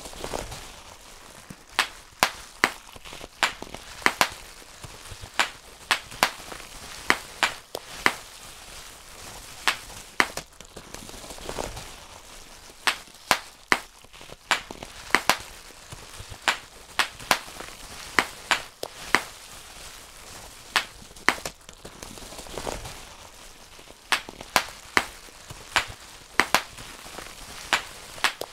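Bubble wrap being popped by hand, one bubble at a time: sharp pops at an irregular pace of one to three a second, with a faint crinkle of the plastic sheet between them.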